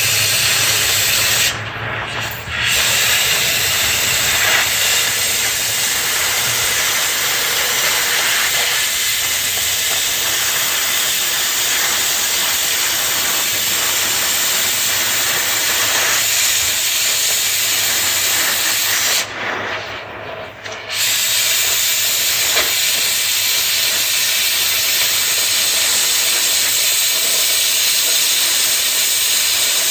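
Cutting torch hissing steadily as it cuts through the bumper-to-frame bolts. The hiss briefly drops twice, about two seconds in and again around twenty seconds.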